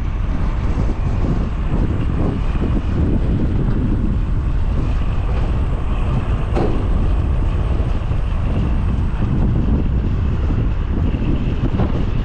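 Strong wind buffeting the camera microphone over the steady running of heavy diesel recovery-truck engines, with a faint high whine under it.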